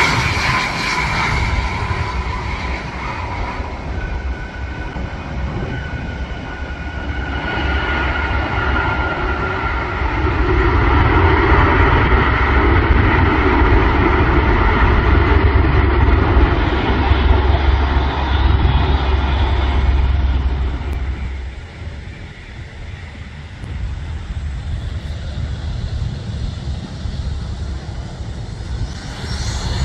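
Jet airliner's engines close by: a heavy rumble with a high turbine whine that swells to its loudest midway, then falls off sharply about two-thirds of the way through.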